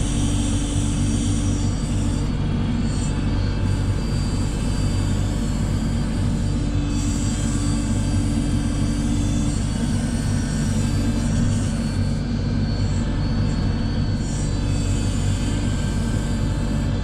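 JCB 3CX backhoe loader's diesel engine running steadily under work, a continuous low hum with no breaks.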